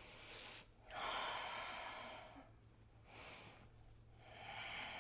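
A woman breathing deeply in and out, two full breaths, each short inhale followed by a longer, louder exhale, while she holds a strenuous standing bind pose in yoga.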